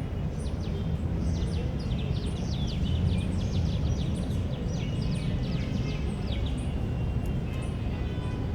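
Small birds chirping in a park, a flurry of quick descending chirps that thins out toward the end, over a steady low background rumble.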